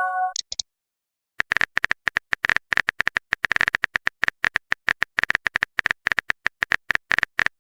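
Keyboard-typing sound effect: a rapid, irregular run of small clicks that starts about a second and a half in and keeps going. A short chime tone dies away at the very start.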